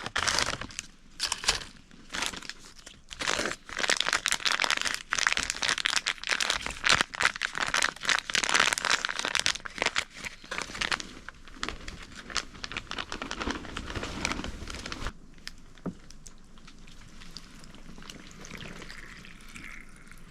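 Plastic packaging crinkling and crackling as the packets of a self-heating hot pot are handled and opened, busy for about fifteen seconds and then dying down to a quieter hush.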